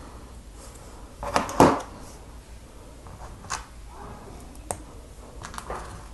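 Plastic Lego pieces being handled and pressed together: a loud cluster of clicks about a second and a half in, then a few single clicks.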